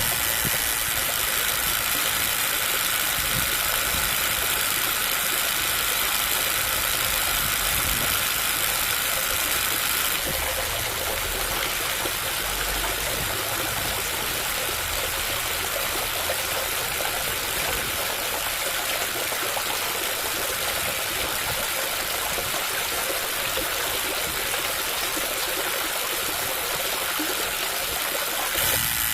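Small electric motor running steadily, mixed with a steady rush of water: a toy-scale DIY water pump pumping water. The sound drops slightly about ten seconds in.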